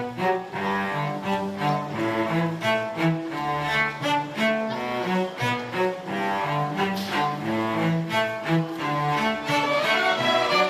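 Elementary school orchestra playing a piece, with a busy low part of short notes moving under the melody.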